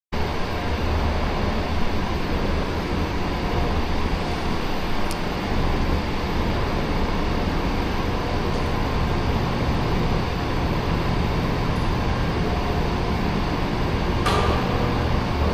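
Steady drone of running machinery with a low hum underneath. A short click about five seconds in and a sharper knock near the end, after which a faint steady tone joins in.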